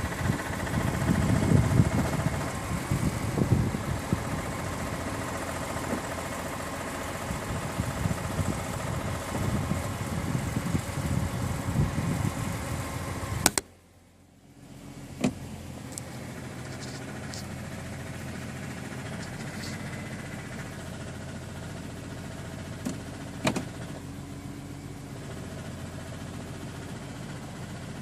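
BMW E46 M3's S54 straight-six running steadily. This is the unexplained abnormal noise the owner hears once the oil is above 80 °C, which he wonders might come from the oil pump. About halfway through the sound cuts off with a sharp click and falls nearly silent for a moment, then a quieter steady hum with a few scattered clicks follows.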